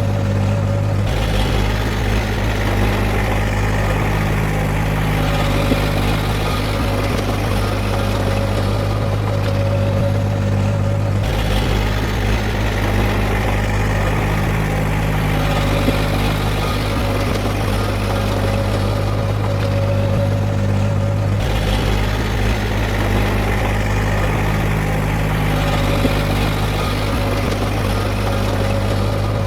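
Diesel engine of heavy earthmoving machinery running steadily with a deep hum. The sound shifts abruptly about a second in, about eleven seconds in and about twenty-one seconds in.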